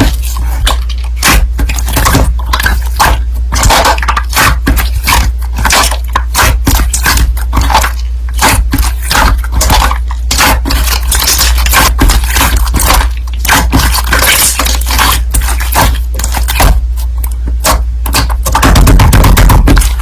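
Slime being pressed, poked and stretched by hand, giving a dense run of crackling, crunching clicks and scraping squelches, over a steady low hum.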